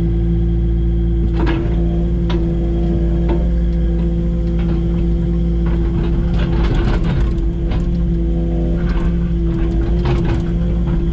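Excavator engine running steadily, with scattered sharp knocks and clanks from the machine at work, more frequent in the second half.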